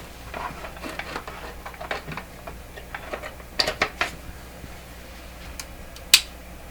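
Scattered clicks, taps and light clatter of hands handling parts and tools on a workbench, with one sharp click about six seconds in.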